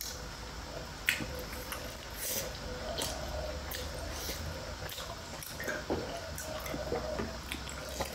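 Close-miked eating sounds of momo dumplings being chewed: wet smacking and squishing with scattered short clicks, a sharper one about a second in.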